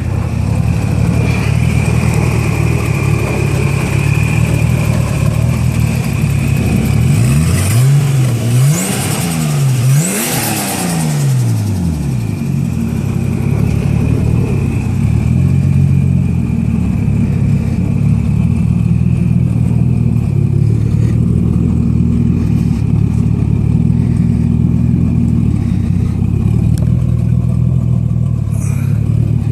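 Nissan Skyline R32 GTS-T's turbocharged straight-six idling warm, a little jumpy. About a third of the way through it is blipped three times, the revs rising and falling back to idle.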